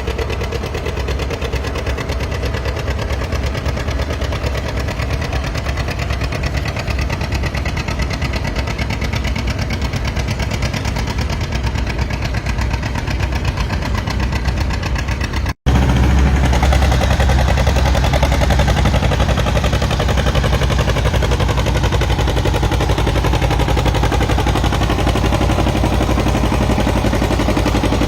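Antique farm tractor engine running, with a rapid, even firing beat. It breaks off for an instant about halfway through and comes back louder.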